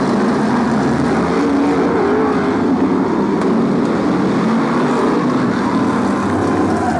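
Several BriSCA F1 stock cars' V8 engines running together, loud and steady, with engine notes wavering up and down as the cars circle the track.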